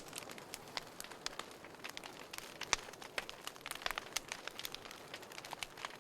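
Wood fire crackling in a fireplace: irregular sharp pops and snaps over a soft steady hiss, the loudest snap a little under three seconds in.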